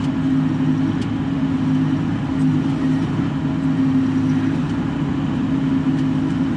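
Bobcat E42 mini excavator's diesel engine running at a steady drone, heard from inside the closed cab.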